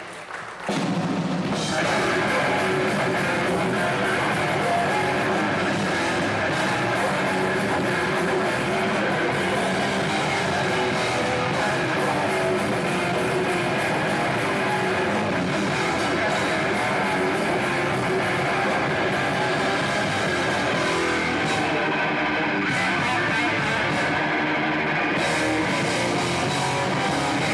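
A live metalcore band playing at full volume, with heavy distorted guitars and a pounding drum kit. The song kicks in about a second in and keeps going without a break.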